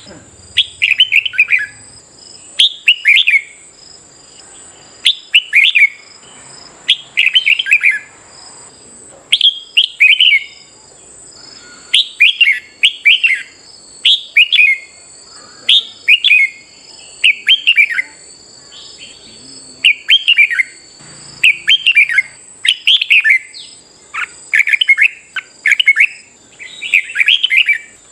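Red-whiskered bulbul singing: short, bright warbled phrases repeated every second or so with brief pauses, over a steady high-pitched whine.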